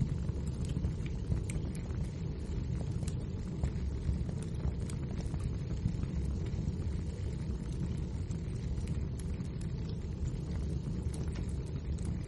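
Wood fire burning: a steady low roar of flames with scattered small crackles and pops from the burning logs.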